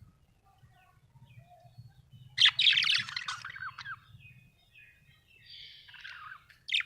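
Budgerigar chirping and chattering. There is a loud burst of quick chirps about two and a half seconds in, a softer warble near six seconds and a sharp chirp at the end, over a faint low hum.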